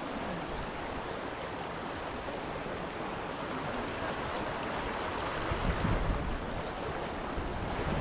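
The River Dove running: a steady rush of flowing water, with a brief low rumble of wind on the microphone about six seconds in.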